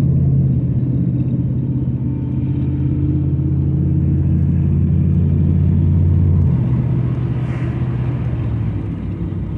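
Dodge Ram pickup's engine running with a steady low rumble; about two-thirds of the way through, the deepest part of the note drops away.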